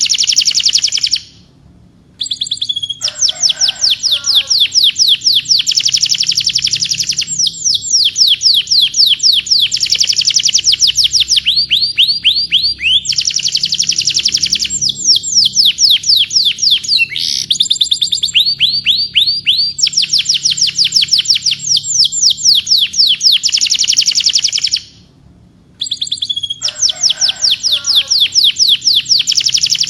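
Domestic canary singing long rolling phrases of fast repeated sweeping notes, changing from one trill to the next, with a short pause about a second in and another near the end.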